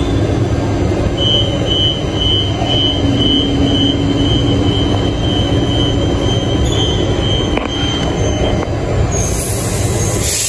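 Electric commuter train standing at the platform with a steady hum. A high beeping door warning sounds for about three seconds as the doors close, and a loud hiss of air starts near the end.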